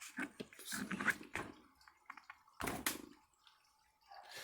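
Short rustles, scrapes and knocks of shock-absorber parts being handled: a cluster in the first second and a half and another about two and a half seconds in.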